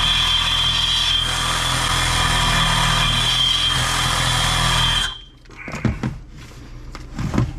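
Electric power tool motor running steadily with a high whine, cutting off suddenly about five seconds in, then a few knocks.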